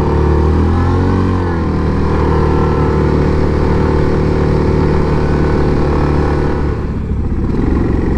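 Yamaha Grizzly 700 ATV's single-cylinder engine running under way. Its pitch rises and falls briefly about a second in, then holds steady.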